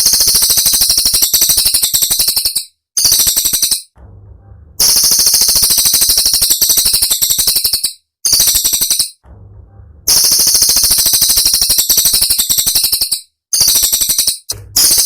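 Cililin songbird singing its sharp, rapid-fire 'tembakan' phrases: dense, very high-pitched rattling trills in bursts of one to three seconds with short pauses between, repeated as a loop.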